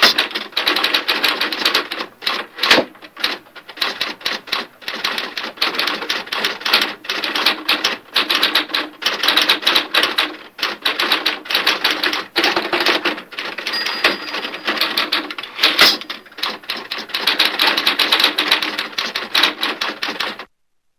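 Printer at work: a dense, rapid, typewriter-like clicking with brief pauses, which cuts off suddenly near the end.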